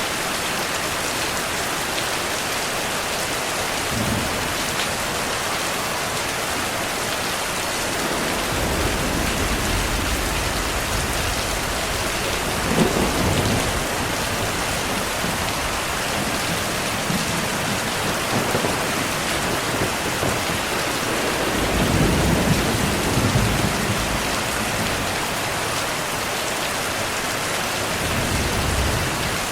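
Steady heavy rain with low rolls of thunder, which swell in from about a third of the way in. The loudest rumbles come near the middle and about three-quarters through.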